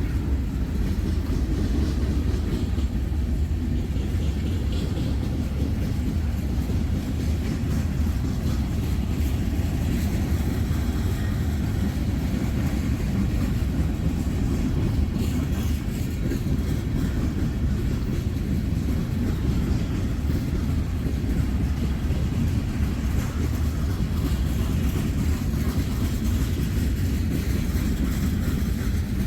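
Freight train of tank cars rolling past, a steady low rumble throughout.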